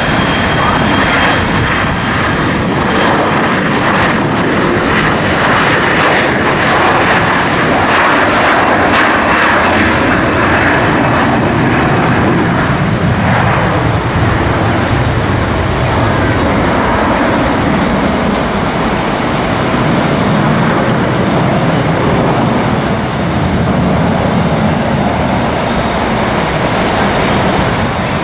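Airplane engines running loud and steady, an even rushing noise, with a faint steady tone joining in about halfway through.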